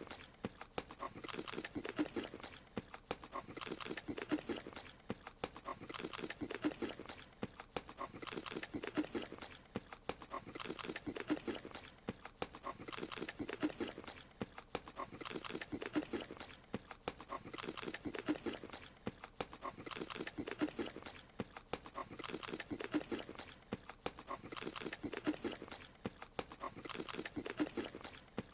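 Looped cartoon eating sound: a short bout of chewing and munching noises that repeats about every two and a quarter seconds, each bout a cluster of quick wet clicks.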